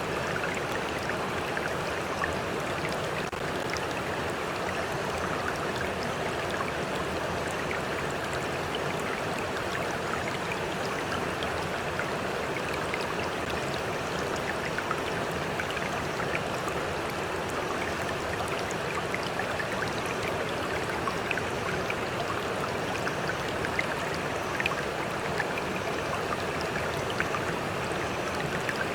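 Stream flowing steadily, a constant rush of water with small splashes and droplet ticks scattered through it.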